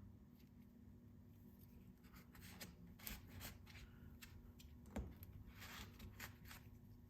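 Faint rustling and handling noises as the unboxed items are moved about, with a few light clicks and one sharper knock about five seconds in.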